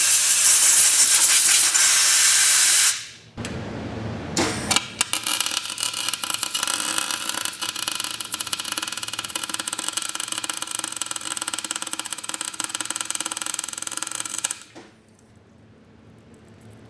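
MIG welder arc crackling and hissing in separate runs: one of about three seconds, a short burst, then a longer run of about ten seconds, as the differential's planet gears are welded together to lock the diff.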